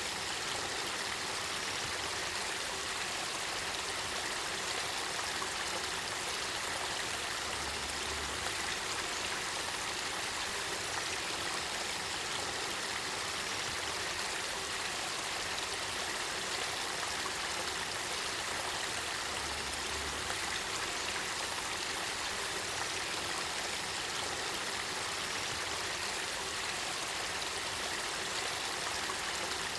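Spring water of the Kakita River flowing and splashing steadily, an even rushing hiss with no pauses.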